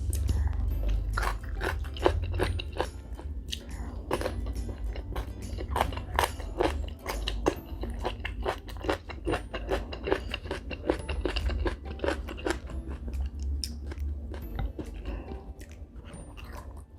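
Close-miked chewing of shrimp tom yum instant noodles and prawns: a quick run of mouth clicks and smacks, about two to three a second, that thins out near the end.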